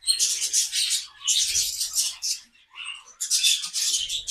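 Budgies chattering: scratchy, high warbling in three bursts of about a second each.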